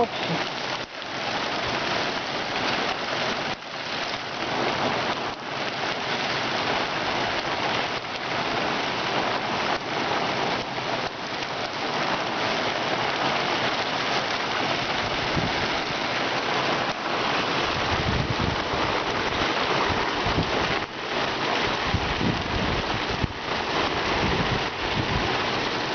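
Heavy rain falling steadily on surfaces, an even hiss, with a few low rumbles in the second half.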